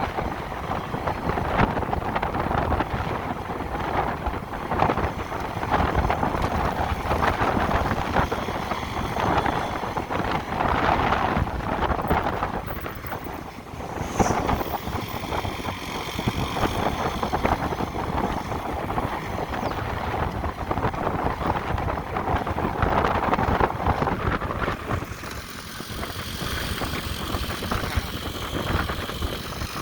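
Wind rushing over the microphone of a moving motorcycle, with road and traffic noise underneath.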